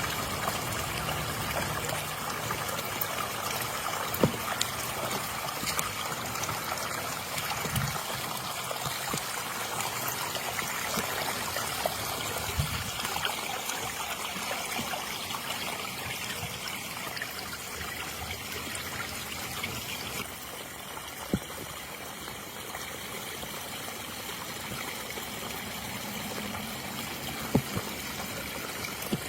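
Storm water running and trickling over the rock cascades of a newly built creek bed, a steady splashing flow, with a few brief clicks.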